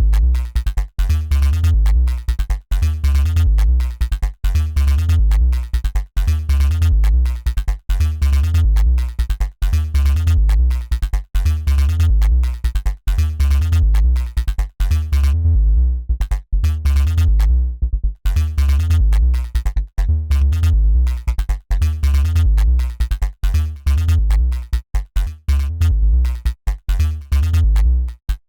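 Dirty FM synth bass riff built in Bitwig Polygrid, looping in a repeating rhythmic pattern with a heavy deep low end. About halfway through, the bright upper part drops out for a couple of seconds, leaving only the deep bass, then returns.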